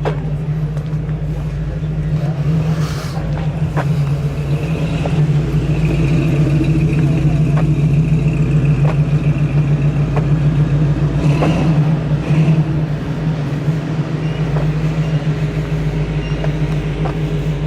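A vehicle engine running steadily at a low, even pitch, with scattered light clicks over it.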